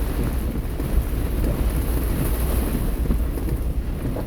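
Heavy rain pelting a moving car's roof and windshield, heard from inside the cabin, over a steady low rumble.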